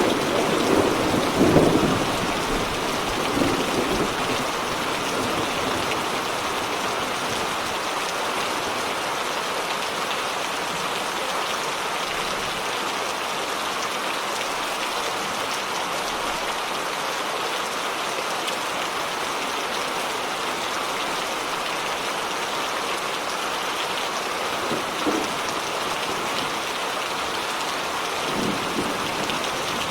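Steady heavy rain falling, an even hiss of drops. A low thunder rumble dies away over the first few seconds.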